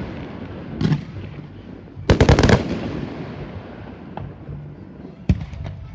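Fireworks going off: a single bang just under a second in, a rapid rattling volley of bangs about two seconds in, then another sharp bang and a few small pops near the end.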